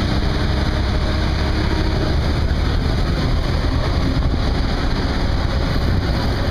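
Steady rush of wind and road noise on the microphone while moving through city traffic, with a low rumble of vehicles underneath.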